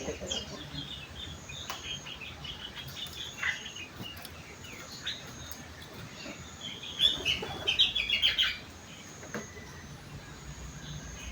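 Sooty-headed bulbul (kutilang) singing in short bursts of quick chirping notes, its song filled with leafbird phrases (rengganis, cucak wilis). The loudest run comes about seven seconds in, then the singing drops away.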